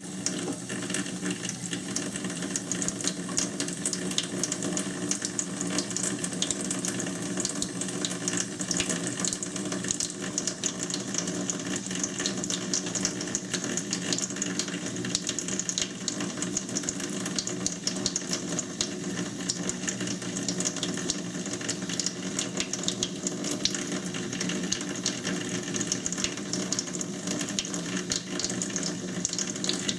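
Tap water running steadily into a sink, a continuous splashing hiss with a steady low hum underneath.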